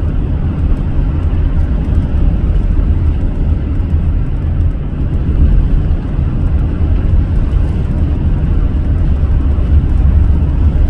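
Steady low rumble of a car being driven at road speed: tyre, road and engine noise with no sudden events.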